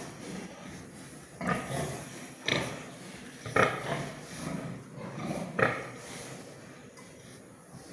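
An animal making a series of short calls, about five in all, roughly a second apart.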